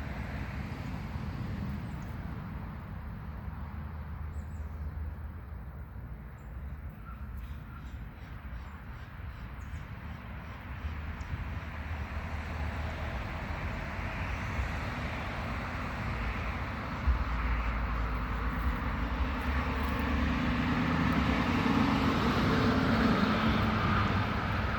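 Low rumble of a passing engine, growing louder over the last few seconds.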